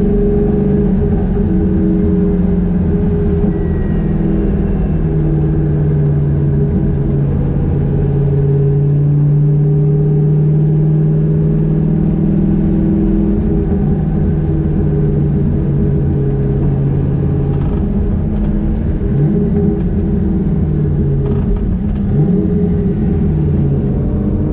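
Turbocharged 6.0-litre LQ4 V8 of a 1972 Camaro running at a steady cruise, heard from inside the cabin. Its note drops slightly about five seconds in, with a few short rising swoops and faint clicks near the end.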